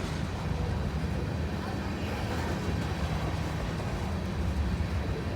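Norfolk Southern freight train passing, its cars rolling by with a steady low rumble.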